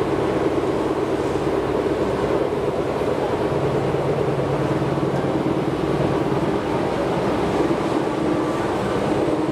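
Steady running noise inside a Tobu 6050 series express train at speed: wheels rumbling on the rails under a constant hum.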